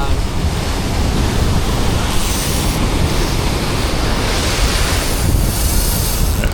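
Ocean surf breaking and washing over a rock ledge, with wind buffeting the microphone as a steady low rumble. The wash swells into a louder hiss twice, about two seconds in and again around five seconds.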